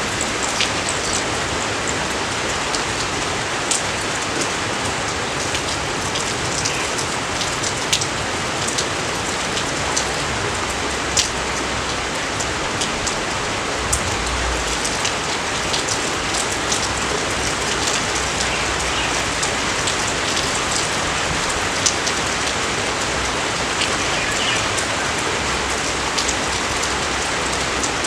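Steady heavy rain falling, with single close drops ticking sharply now and then.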